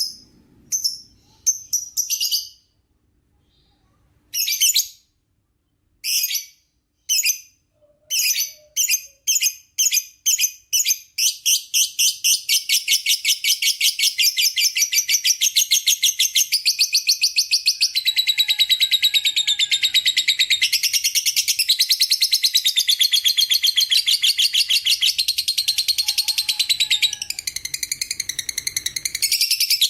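Lovebird 'ngekek' song: separate sharp chirps, a short pause, then chirps that speed up and run together into one long, fast chattering trill lasting close to twenty seconds.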